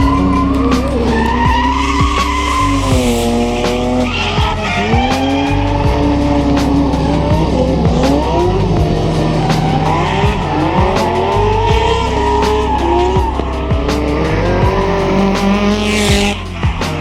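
Drift car engine revving hard, its pitch rising and falling again and again as the car drifts, with tyre squeal. Background music with a steady bass line plays underneath.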